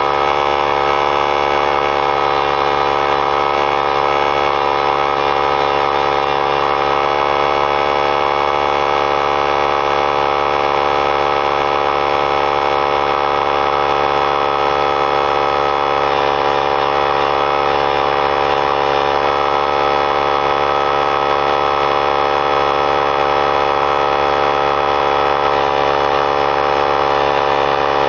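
3-gallon pancake oilless air compressor running steadily as it fills its tank toward cut-out pressure: an even, unchanging motor-and-pump drone made of many steady tones.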